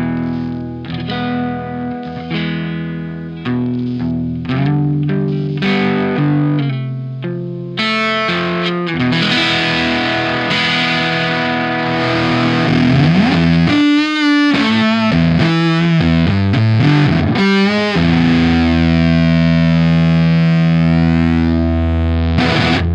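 Fender Telecaster played through a Tone Bender MKII-style fuzz pedal built with germanium and silicon transistors, into a Marshall SV20H valve amp. First come single picked notes left to ring, then about eight seconds in the playing turns louder and heavily fuzzed, with a slide up the neck and choppy riffing. It ends on a long sustained chord that stops abruptly near the end.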